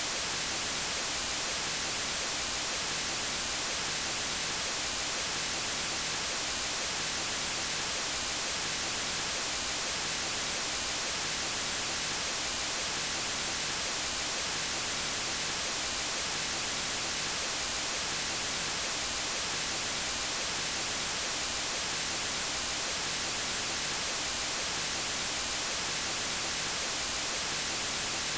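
Steady white noise: an even, unchanging hiss across all pitches, strongest in the treble.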